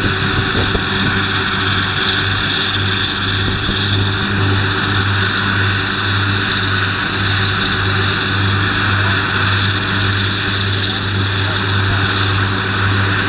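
New Holland T7.315's 6.7-litre six-cylinder diesel running steadily under load with its Kuhn triple disc mower conditioners spinning: a continuous drone with a low, regularly pulsing throb and a steady high whir over it.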